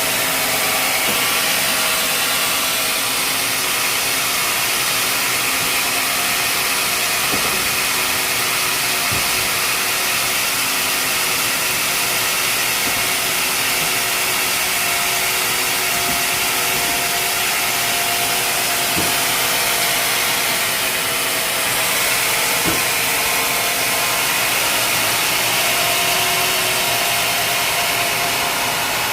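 Sawmill saw running and cutting through a log: a steady, loud mechanical whine and hiss, with a few sharp knocks here and there.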